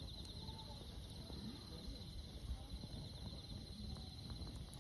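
Campfire burning with a low steady rumble and a few faint crackles, under a steady high-pitched pulsing trill.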